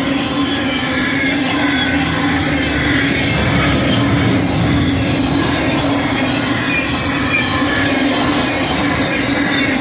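Double-stack intermodal container cars of a freight train rolling past at speed: a steady, loud rumble of steel wheels on rail.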